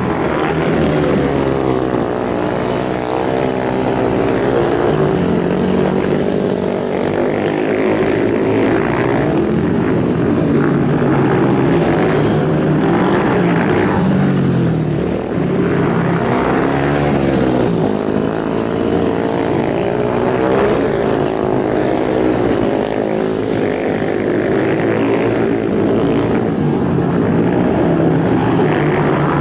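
Several racing motorcycle engines running at high revs together, their pitch rising and falling over and over as they rev and shift.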